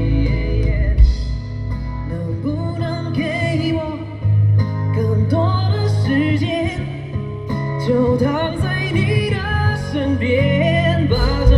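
Live pop song performance: a male singer's melody over band accompaniment with guitar and bass.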